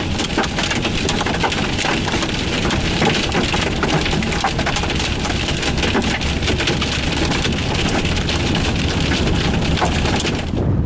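Heavy rain pelting a car's roof and windshield, a dense, loud patter full of sharp ticks, cutting off suddenly near the end.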